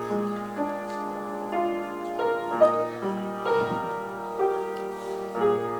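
Soft background piano music playing slow, sustained chords and notes.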